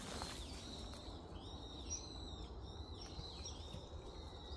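Faint bird calls: a string of short chirps, over a thin steady high tone.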